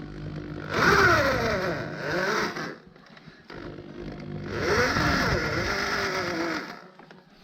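Suzuki KingQuad 750 ATV's single-cylinder engine revved twice, each rev lasting two to three seconds with the pitch swinging up and down.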